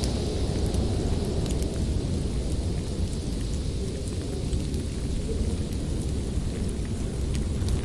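Steady low rumble of storm wind with scattered sharp crackles and pops from a wood fire.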